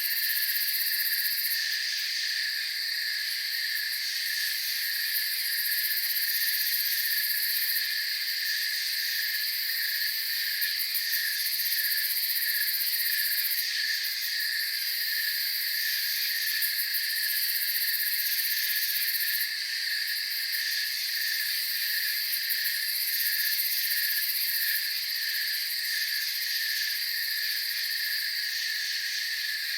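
Night insect chorus of crickets trilling continuously in several overlapping layers: a pulsing chirp line, a steady higher trill, and a very high shrill layer that drops out and returns every few seconds.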